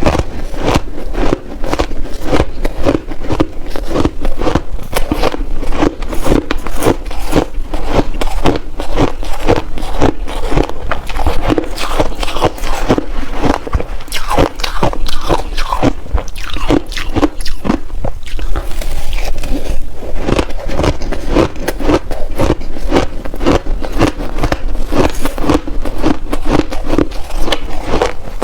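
Close-miked crunching and chewing of mouthfuls of shaved ice, a rapid run of crisp crunches in big bites.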